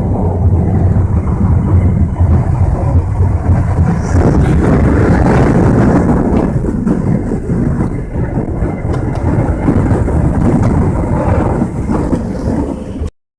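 Loud, steady low rumble of a moving Amtrak passenger train, heard from the gangway between cars. It cuts off suddenly near the end.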